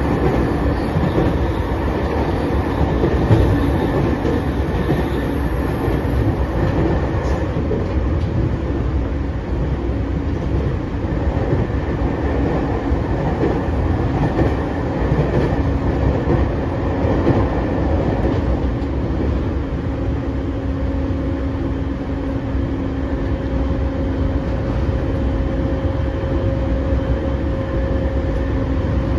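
JR East E231 series commuter train running, heard from inside the passenger car: a steady rumble of wheels on rail with some clickety-clack. A high hiss stops about seven seconds in, and a low steady hum grows clearer in the second half.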